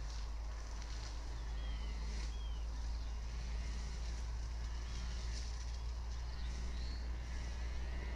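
A steady low rumble, with small birds chirping in short high notes that slide down in pitch, one every second or so.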